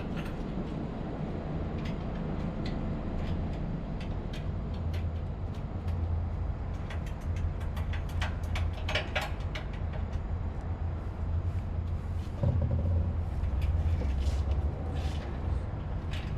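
Steady low machinery hum with scattered sharp metallic clicks and taps from hand tools, as parts are refitted on a 7.5 kW electric motor after its bearings were replaced. The clicks bunch together a little past the middle and again near the end.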